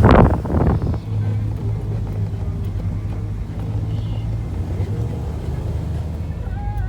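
A car engine running with a steady low drone, after a loud gust of wind on the microphone in the first second. Faint music comes in near the end.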